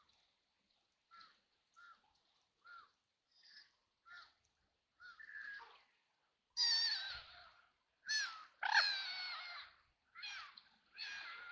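Ducks quacking: a string of short, soft calls, then louder, harsh quacks starting about six and a half seconds in.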